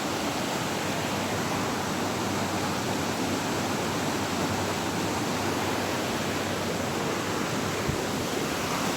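Steady rush of running water, an even hiss with no change in level.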